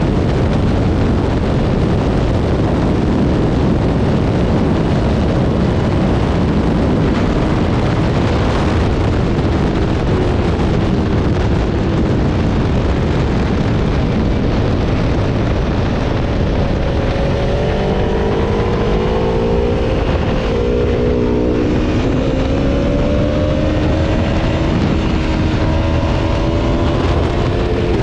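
Aprilia Tuono V4 motorcycle's V4 engine under way at track speed, under a heavy, steady rush of noise. In the second half the engine note climbs in pitch, falls back sharply about two-thirds of the way through, as at a gear change or braking, then climbs again.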